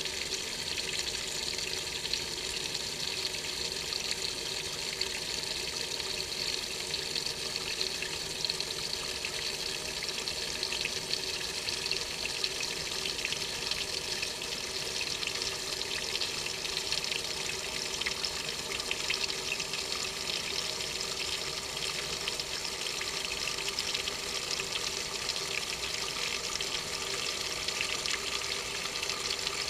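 Water running steadily into and around the tub of a Maytag washing machine, heard from inside the tub.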